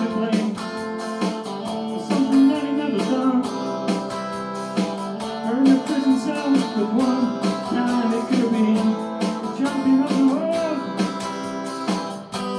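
Guitar music: strummed chords played steadily, with a melody line over them that bends up and down in pitch.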